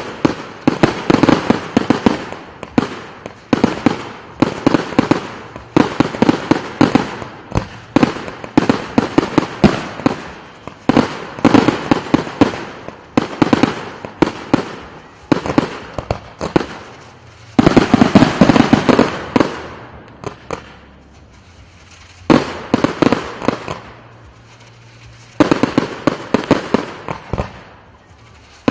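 Display fireworks shooting in rapid volleys: sharp launches and bursts several a second, broken by a lull of a few seconds about two-thirds through before the firing resumes.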